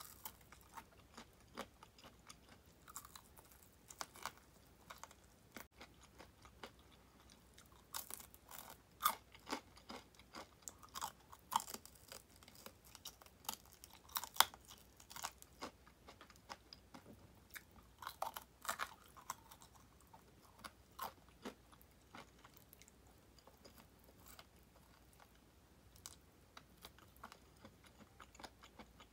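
Crispy deep-fried chicken drumettes ('tulip' wings) being bitten and chewed close to the microphone: irregular crackling crunches of the fried coating, busiest in the middle, with softer chewing between them.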